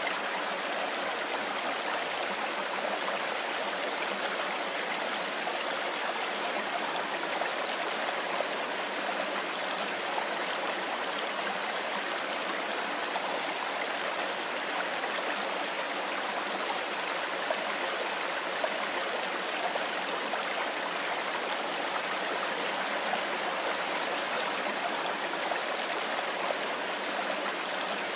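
Mountain river running over stones: a steady rushing and babbling of water.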